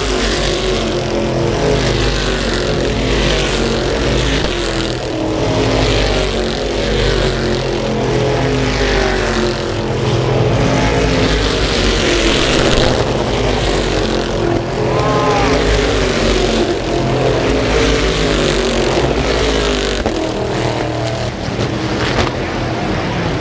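Stock car engines running at racing speed, several at once, their pitches overlapping and rising and falling as the cars pass.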